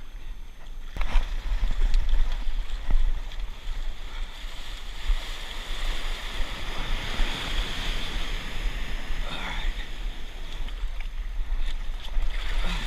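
Ocean surf washing, swelling in the middle, with wind buffeting the microphone.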